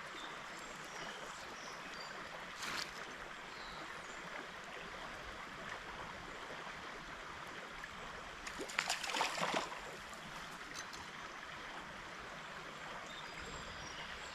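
Small trout stream flowing steadily, a constant rush of water. A short burst of louder noise comes about three seconds in, and a longer one about nine seconds in.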